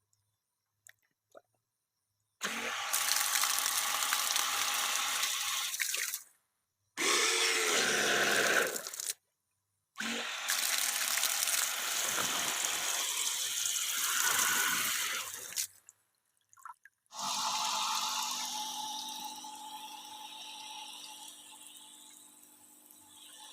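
Water gushing and splashing from a homemade 775-motor water pump in four spurts of a few seconds each, starting and stopping abruptly as the pump runs; the last spurt slowly fades.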